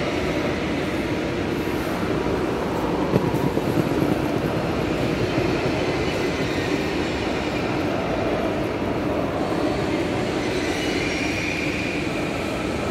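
Trains in a large station train shed: a steady, echoing rumble of rail traffic, with a faint high wheel squeal near the end.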